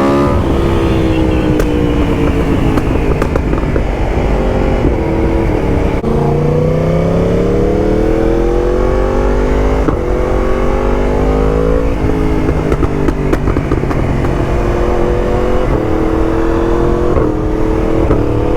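Yamaha MT-10's crossplane inline-four running through a full titanium Akrapovic race exhaust, accelerating up through the gears. The engine note climbs, then drops with a bang on each quickshifter upshift, several times over, with sharp pops along the way.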